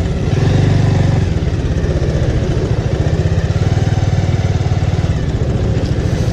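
Bajaj Avenger motorcycle's single-cylinder engine running steadily as the bike is ridden, its firing pulses chugging evenly, a little louder for about a second near the start.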